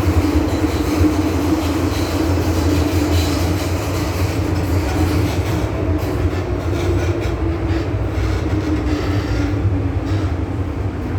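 MTR M-Train electric multiple unit running along the line: a steady rolling rumble of wheels on rail with a constant hum throughout.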